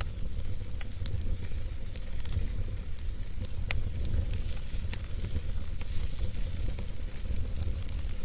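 Wood fire burning in a fireplace: a steady low rumble of flame and hiss, with scattered crackles and pops from the burning wood.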